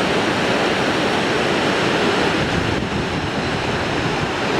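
Mountain river rushing in a steady, loud roar of water.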